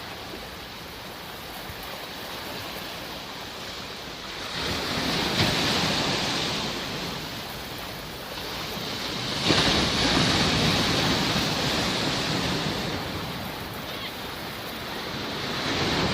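Sea waves washing onto a shore, a steady hiss of surf that swells three times as waves break, about 4.5, 9 and 15 seconds in.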